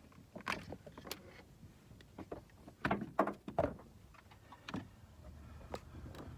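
Irregular clicks and knocks of tools and parts being handled, with a cluster of louder knocks about three seconds in; a low steady hum comes up near the end.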